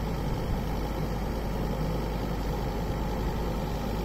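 Ford Endeavour's diesel engine idling steadily, with no revving.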